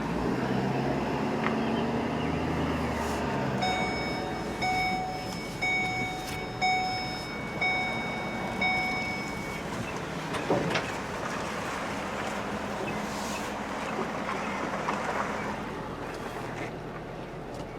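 Vehicle engine running, with an electronic beeper sounding six times, about once a second, starting a few seconds in. A sharp knock about ten seconds in.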